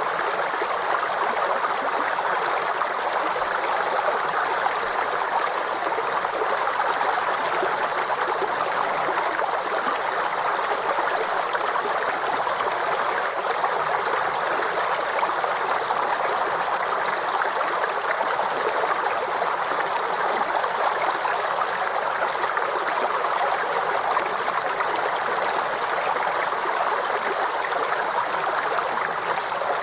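Forest stream flowing steadily over rocks, a constant rushing babble of water.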